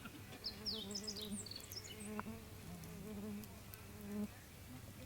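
An insect, a fly or bee, buzzing close by, its hum wavering and fading in and out. A bird chirps a few quick high notes in the first second and a half.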